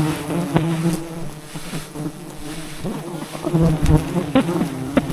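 A swarm of honeybees buzzing close around the hive they are defending, many wingbeat hums overlapping and wavering in pitch, with a few sharp clicks among them.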